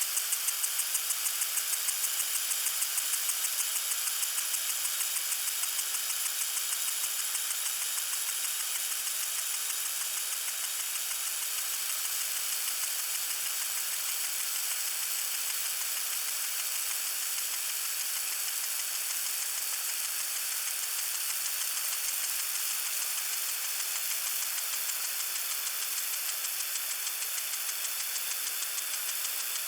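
Lawn sprinkler spraying water: a steady high hiss with a fast, even ticking running through it, most marked in the first few seconds.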